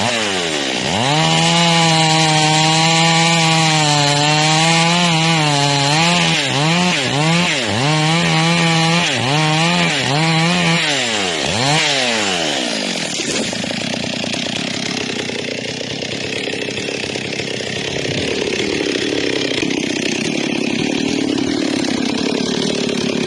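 Two-stroke chainsaw running at high revs and cutting wood, then revved up and down over and over. About 13 seconds in its clear note gives way to a lower, rougher noise.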